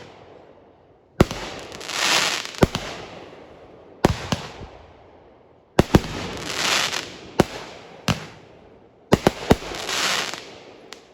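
Fireworks going off: sharp bangs every second or so, often two or three close together. Three times a loud hiss swells and fades over about a second. The last bang comes near the end, then it dies away.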